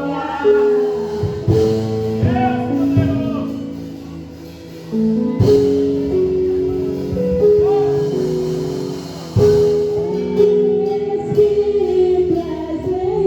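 Gospel worship music: instruments holding sustained chords that change every second or two, with singing over them.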